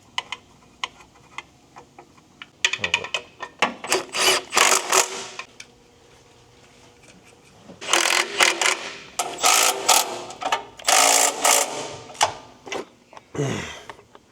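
Cordless power tool running in two long bursts with a rapid rattle, driving fasteners on the exhaust A-pipe, with a few clicks of hand work between the bursts.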